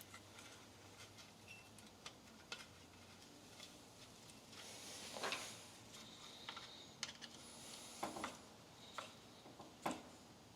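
Faint, scattered clicks and light metal taps from hand tools working on the carburetor linkage of a 1950 REO small engine, with a brief scraping rustle about five seconds in.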